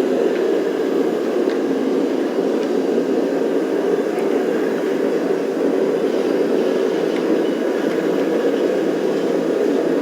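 Steady blowing hum of a shop heater. The LiftMaster 8500 wall-mount opener drives the door so quietly that its motor can't be heard under it.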